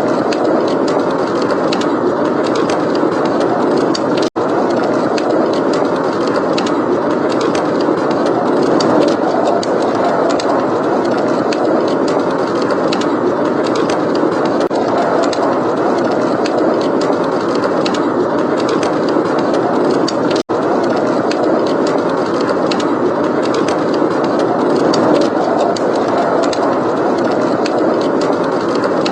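Blizzard wind rushing steadily, mixed with the small, sharp crackles of a wood fire in a fireplace. The sound cuts out for an instant twice.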